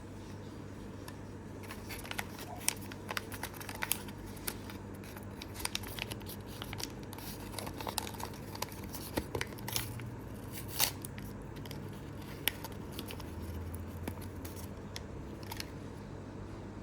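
Mini Brands capsule and blind-bag packaging being handled and opened by hand: irregular crinkling, tearing and snipping with sharp clicks, the sharpest about eleven seconds in, over a steady low hum.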